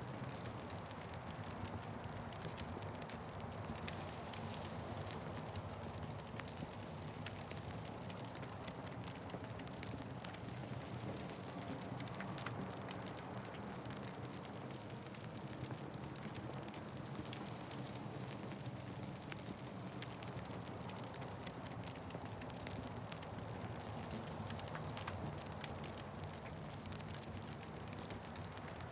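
Wood fire crackling steadily in a fireplace: a continuous low rumble of burning with frequent small, sharp pops and snaps.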